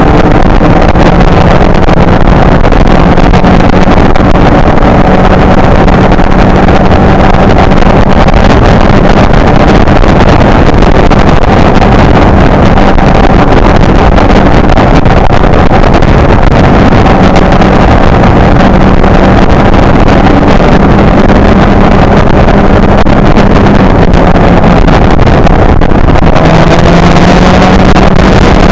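Sport motorcycle engine running at a steady cruising speed, buried in heavy wind rush on the action-camera microphone. Near the end the engine pitch drops and then climbs again.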